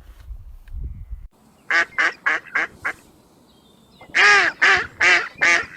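Waterfowl calling in a run of short, nasal, pitched calls: about five quick ones, then after a pause a longer call followed by several more.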